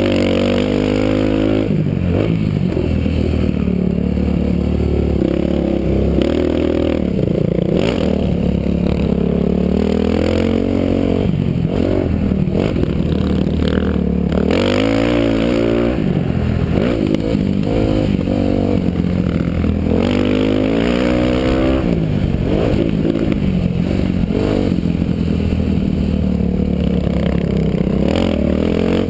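Motocross dirt bike engine heard from the rider's helmet camera, revs climbing and dropping over and over as the bike is ridden hard around the track.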